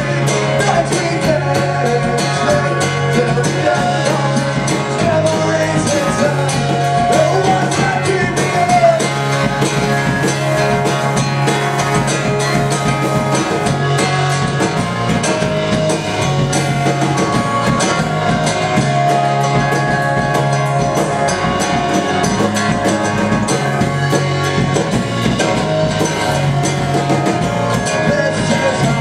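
Live acoustic punk rock song: acoustic guitar strummed steadily with a singer's voice, the vocal line most prominent in the first third.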